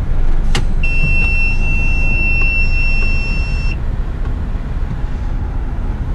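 Steady low rumble of the eight-wheeler twin-steer truck's engine and tyres heard from the cab, with a single steady high-pitched electronic beep starting about a second in and lasting about three seconds.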